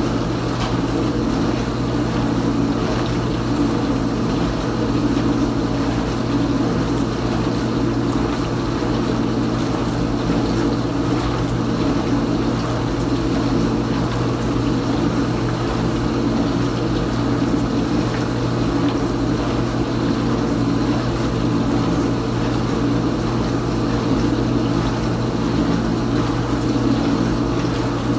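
Kenmore Ultra Wash dishwasher mid-cycle, its circulation pump running with a steady hum as water sprays around the tub.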